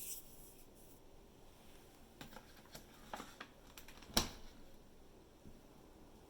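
Quiet room tone with a few light clicks about two to three and a half seconds in, then one sharper knock a little after four seconds.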